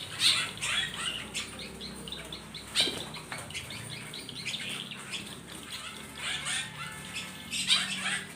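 A group of small caged songbirds chirping busily with quick, repeated calls and fluttering their wings, with a few sharp knocks standing out as the loudest moments.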